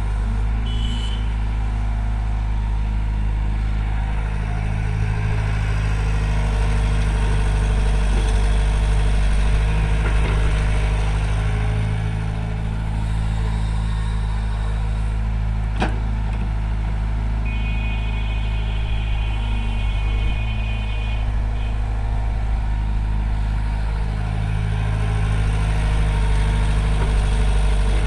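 Heavy machine's diesel engine running steadily at low revs, swelling slightly now and then. A sharp click comes a little past halfway, and a high steady tone sounds for a few seconds soon after.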